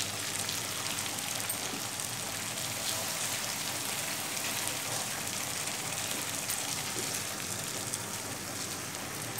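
Potatoes, eggplant and tomato sizzling steadily in hot oil in a frying pan, with a wet green coriander-chilli-garlic paste just added.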